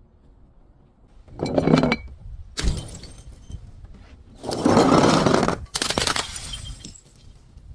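Glass bottles breaking and being crushed: a short crunch, then a sharp shattering hit with glass ringing after it, then a longer loud crunching about five seconds in, trailing off into small crackles of glass.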